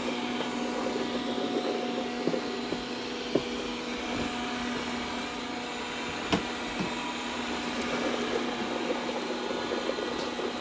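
Dreame D10 robot vacuum running steadily as it cleans: an even suction noise with a steady hum, broken by a few sharp clicks, the loudest about three and six seconds in.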